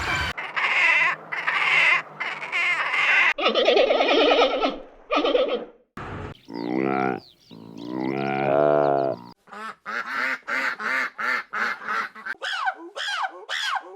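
Farm animal calls in quick succession: fowl calling for the first few seconds, then two long low pitched calls about a second and a half each, then a fast run of short high calls, about four a second, to the end.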